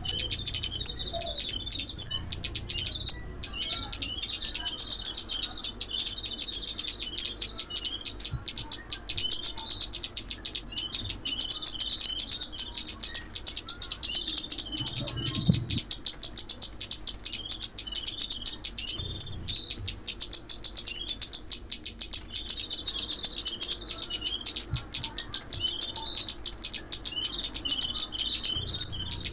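Sunbird (the 'chim ốc mít') singing a continuous, rapid, high-pitched chirping and twittering song.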